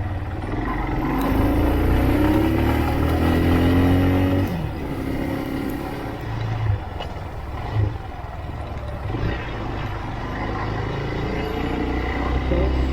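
Motorcycle engine accelerating under way, its pitch rising for about three seconds and then dropping off as the throttle closes, then climbing again near the end, over a steady low rumble of engine and wind.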